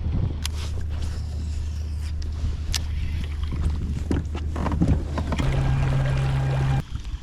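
Kayak-mounted Newport NK180 electric trolling motor running with a steady low hum. About five seconds in it shifts up to a higher, louder tone, then cuts off suddenly near the end. A few sharp knocks sound over it.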